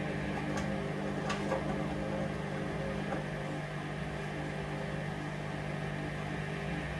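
Hoover Vision Dynamic washing machine running steadily: an even motor hum with the drum turning, and a few light clicks about a second in.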